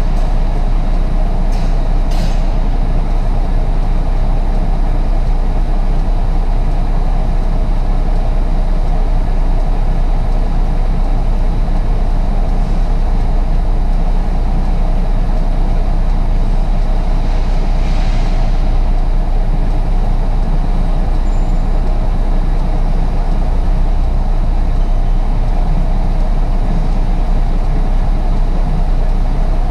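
Truck engine running steadily with a constant low rumble. A short hiss comes in about 18 seconds in.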